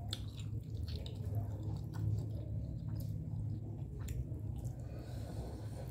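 Close, wet chewing and squishy mouth sounds of steamed vegetable momos being eaten, with scattered small smacks and clicks, over a steady low hum.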